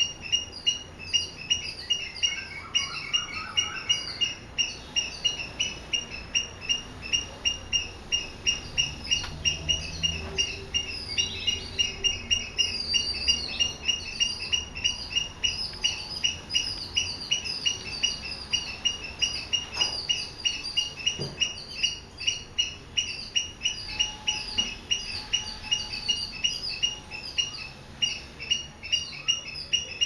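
A bird chirping over and over in a steady rhythm, about three short high chirps a second, with other bird calls mixed in.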